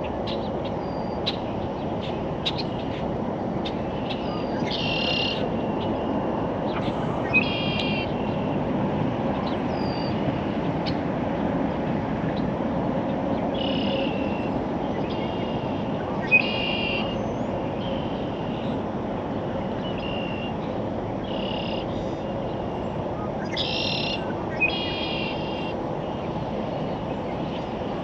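Songbirds calling, short high calls repeated every few seconds, over a steady low background rumble.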